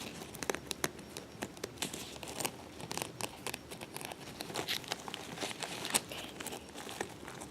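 Whisker City cat carrier bag handled close to the microphone: irregular crinkling and scratching with many sharp little clicks.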